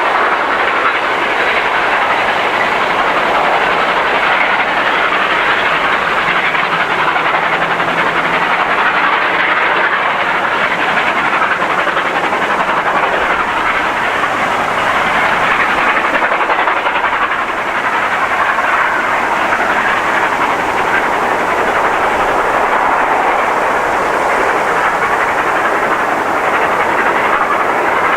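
Steam train double-headed by R class locomotives R707 and R761 running along the line, giving a loud, steady noise of the train and its wheels on the rails.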